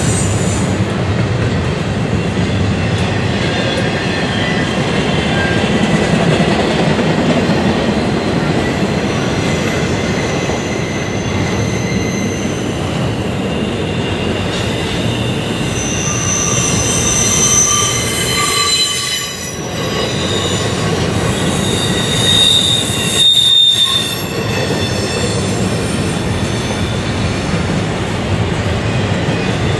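Double-stack container well cars of a freight train rolling past, wheels running steadily over the rails. High-pitched wheel squeal rises about halfway through and again a few seconds later.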